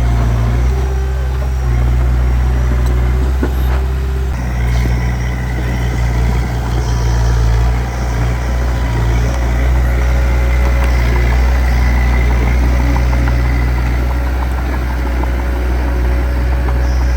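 Heavy diesel engine of earthmoving machinery running steadily, with a loud low hum that dips briefly about halfway through.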